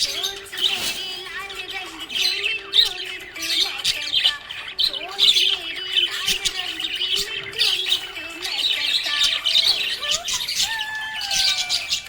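Budgies chirping and chattering in a dense, continuous stream of rapid high chirps.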